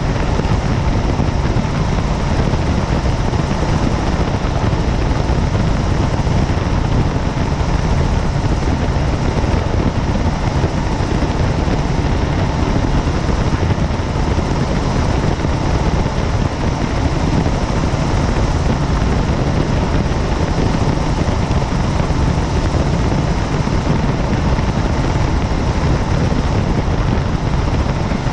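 Helicopter in flight, its rotor and engine giving a loud, steady drone heard from on board.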